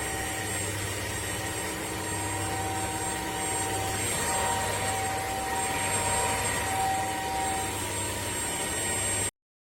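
Bissell CrossWave OmniForce cordless wet-dry floor cleaner running steadily, its motor giving a whine of several held tones over a low hum. The sound stops dead a little past nine seconds in.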